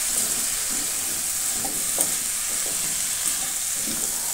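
Cauliflower and potato pieces sizzling steadily in hot spiced oil in a non-stick pan while being stirred with a spatula, with a few brief scrapes and knocks of the spatula against the pan, the sharpest about halfway through.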